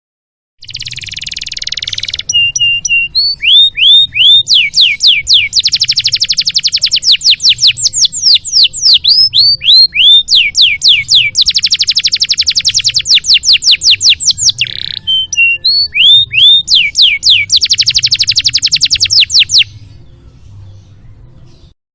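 Canary song from a song-training (masteran) recording: fast trills of rapidly repeated notes alternate with series of falling whistles and a few rising notes. It begins about half a second in and cuts off suddenly near the end.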